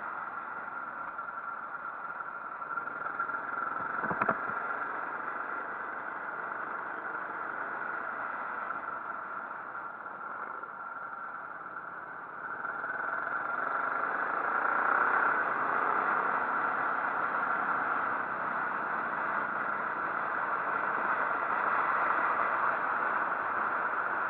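Motorcycle engine running steadily. There is a single sharp click about four seconds in, and the sound grows louder from about halfway through.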